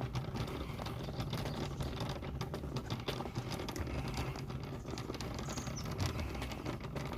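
Close rustling and dense small clicks with a low rumble, typical of a handheld phone being carried on a walk. One short high bird chirp comes about five and a half seconds in.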